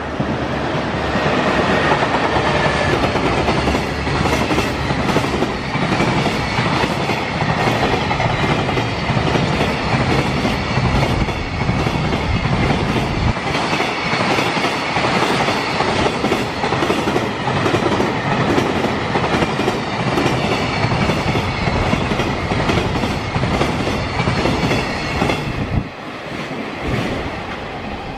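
JR Freight EF210 electric locomotive passing with a powerful traction-motor sound, followed by a long freight train of container flat wagons running past with a steady clickety-clack over the rail joints. Near the end the last wagons go by and the sound drops away.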